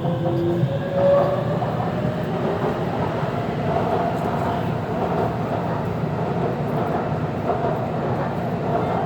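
Taipei Metro C341 electric multiple-unit train running, a steady rumble of wheels and running noise with faint whining tones, one of them rising in the first second.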